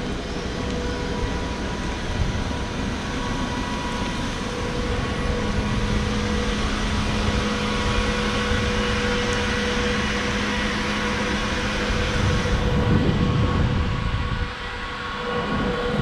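Tram running on its rails: a continuous rumble with a steady whine of several held tones over it. One low tone drops out about twelve and a half seconds in, and the sound goes briefly quieter about fourteen and a half seconds in.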